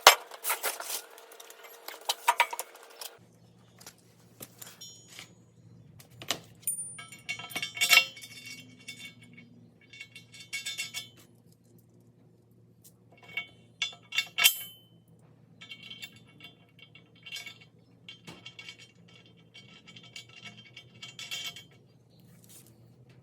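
Metal tools and bolt hardware clinking and rattling in short bursts, with a faint steady low hum underneath from about three seconds in.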